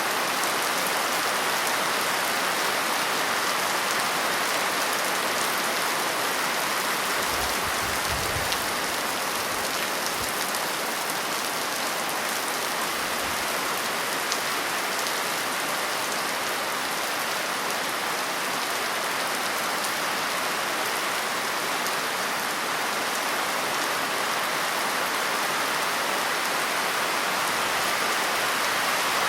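Steady rain falling on a surface, an even hiss of many drops, with a brief faint low rumble about eight seconds in.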